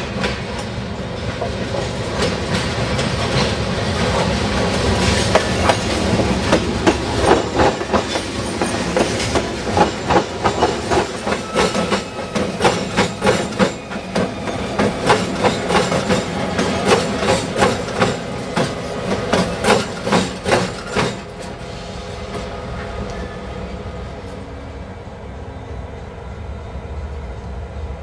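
Norfolk Southern freight train rolling past close by, its wheels clacking in a fast, uneven run of sharp clicks over a low rumble. The clacking stops about 21 seconds in, leaving a quieter steady rumble.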